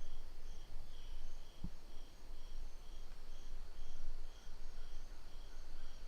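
Insects calling in a steady pulsing chorus, about two high pulses a second, with one soft low thump about a second and a half in.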